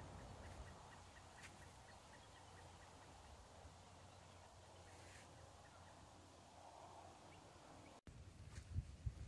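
Near silence: faint outdoor ambience, with a faint rapid series of short ticks or chirps in the first few seconds and a few soft low thumps near the end.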